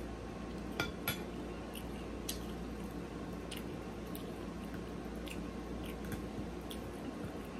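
Close-miked chewing of a mouthful of chili beans: scattered soft, wet mouth clicks, with two sharper clicks about a second in, over a steady low hum.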